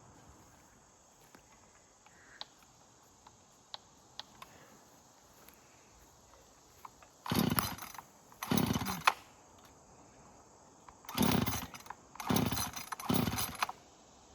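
A chainsaw run in five short bursts of under a second each, starting about halfway through. Before that there is only faint outdoor background with a few light ticks.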